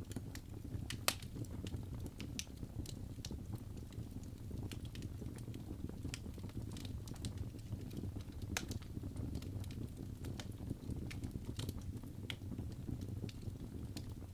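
Wood fire crackling: irregular sharp pops and snaps over a steady low rumble, one pop about a second in louder than the rest.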